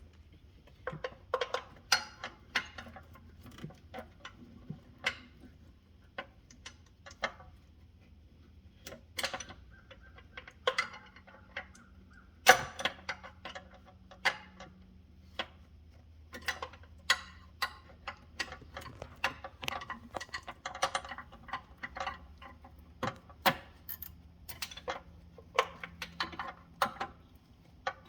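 Hand tools and metal engine parts clicking and clinking irregularly as they are handled.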